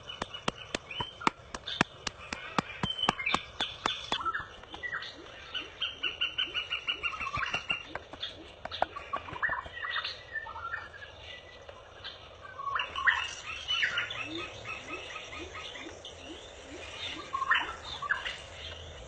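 Birds chirping and calling in repeated short trills. A fast run of sharp clicks, about five a second, runs through the first four seconds.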